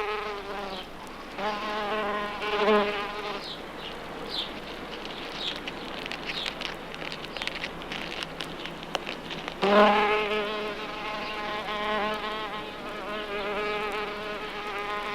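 Leaf-cutting bee buzzing in flight: a pitched hum in two short spells in the first three seconds, then a longer spell from about ten seconds on, with a quieter hiss between.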